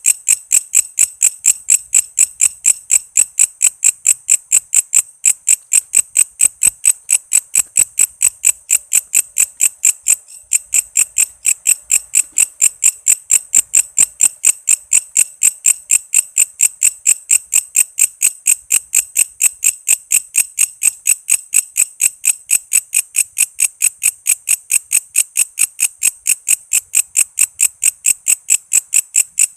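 Walang kece insect singing: an even, rapid train of high-pitched chirps, about four a second, with a brief break about ten seconds in.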